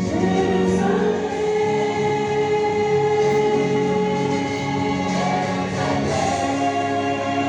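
A choir singing a gospel hymn in long held notes over a steady lower accompaniment.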